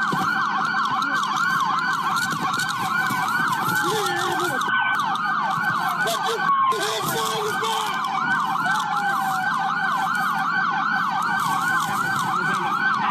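Several police car sirens sounding together in a fast yelp, each sweeping up and down several times a second. The sirens overlap out of step, with a few slower wailing glides mixed in.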